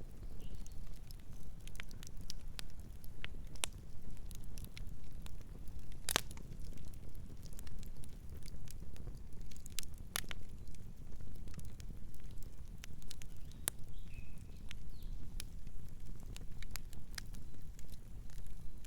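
Campfire burning, with a steady low rush under irregular crackles and snaps from the burning wood; two sharper pops stand out about six and ten seconds in.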